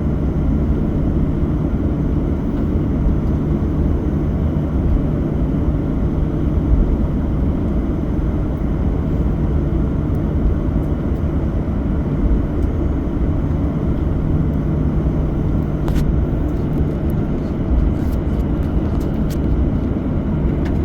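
Steady low cabin rumble inside a Boeing 737-800 on the ground before takeoff, with a constant low hum. A few light clicks or rattles come in near the end.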